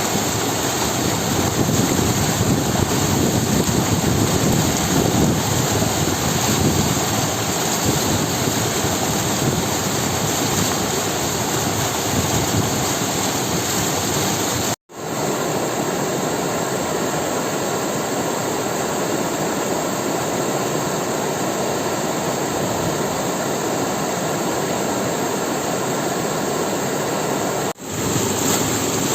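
Steady rush of water at the Munzur springs, a loud even roar with no pitch. It breaks off abruptly twice, about halfway through and near the end, where the footage cuts between shots.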